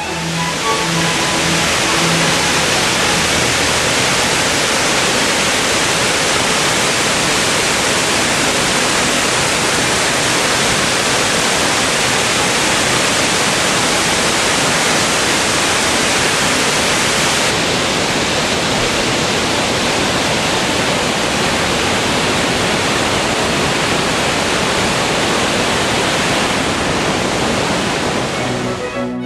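Waterfall: a loud, steady rush of falling water, with string music fading out in the first couple of seconds.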